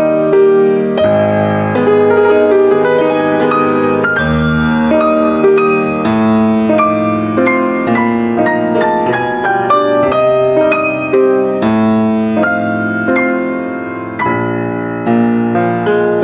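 Soft piano music: a continuous flow of single notes and chords over deeper bass notes.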